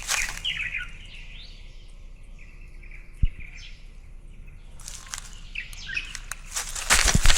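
Small birds chirping in short calls. Near the end come quick, loud scuffs and thumps of a dog on the move, with the camera it carries being jostled.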